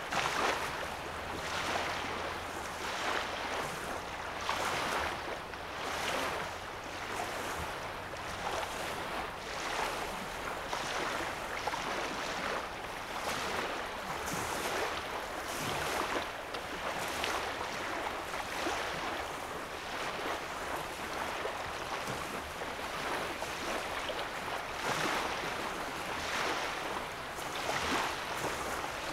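Small lake waves lapping on a sandy shore, a soft wash that swells and falls every second or two.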